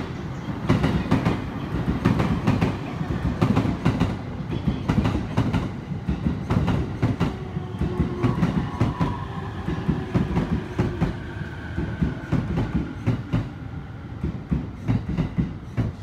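Train running along the platform, its wheels clacking over the rail joints in a dense, uneven rattle over a low rumble, with a faint whine around the middle.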